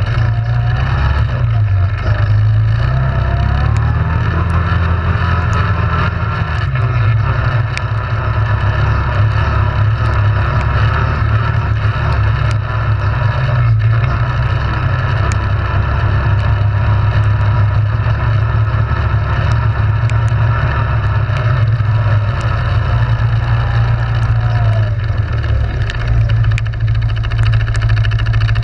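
ATV engine running under way for the whole stretch, its pitch rising and falling with the throttle.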